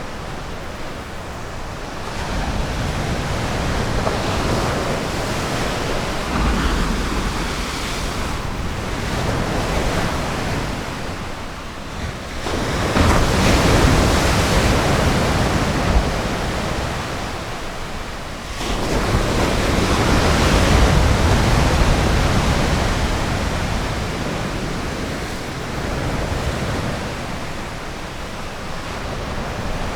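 Ocean surf washing onto a beach: a continuous rush of waves that swells and eases. Louder breakers come about 13 seconds in and again about 19 seconds in.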